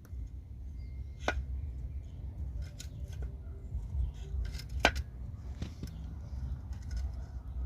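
Faulty air-conditioning compressor running with a steady low rumble and irregular sharp clicks, the loudest about a second in and again near the five-second mark. The sound is that of a bad compressor.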